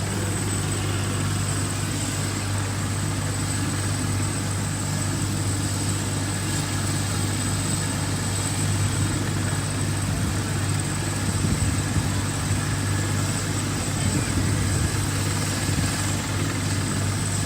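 Police helicopter's turbine engine and rotor running steadily: a low drone with a thin, high-pitched whine over it.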